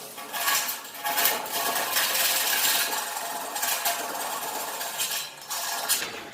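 Steel parts and tools clinking and scraping with irregular metal-on-metal strokes.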